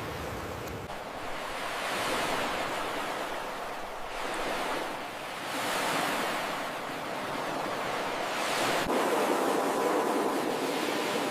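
Ocean surf breaking on a beach, the wash swelling and ebbing in three waves over the stretch.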